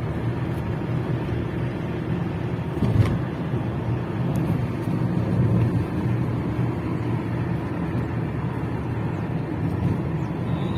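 A motor vehicle's engine running steadily as a low drone, with a single knock about three seconds in.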